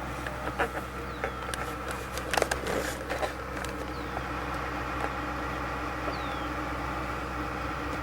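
A vehicle engine idling steadily, with a run of clicks and clanks loudest about two and a half seconds in, and a few short, high, falling chirps.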